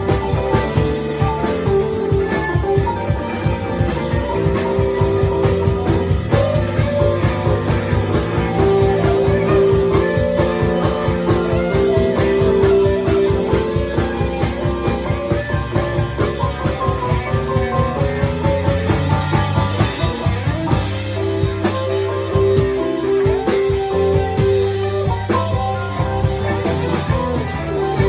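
Band playing rock music: guitar with held melody notes over a steady drum beat.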